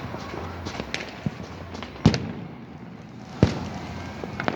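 Fireworks going off: two loud bangs about a second and a half apart, the first about two seconds in, among many smaller pops and crackles.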